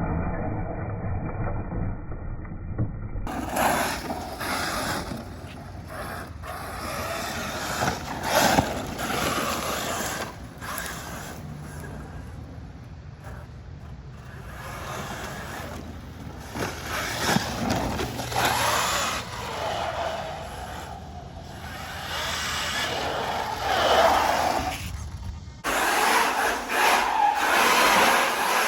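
Arrma 6S brushless RC trucks driving over dirt and gravel, with tyre and gravel noise that rises and falls and scattered sharp knocks. The sound changes abruptly twice, about three seconds in and near the end.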